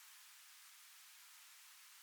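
Near silence: a faint, steady hiss of quiet outdoor ambience.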